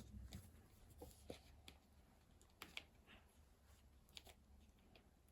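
Near silence with a few faint, scattered taps and rustles: craft materials being handled on a table.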